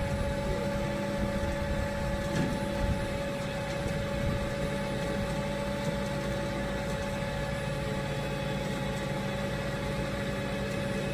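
Flatbed tow truck's engine running steadily, with a constant whine over the low rumble.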